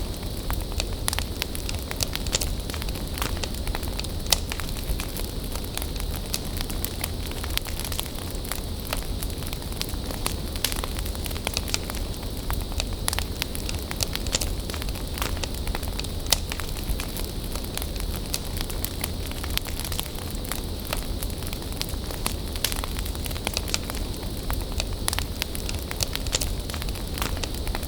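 Wood bonfire burning steadily, with frequent sharp crackles and pops over a low rumble.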